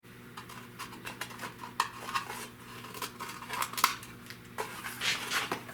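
Irregular light clicks and taps of hard plastic with a brief scrape about five seconds in, as pieces of a taillight lens are handled and fitted together.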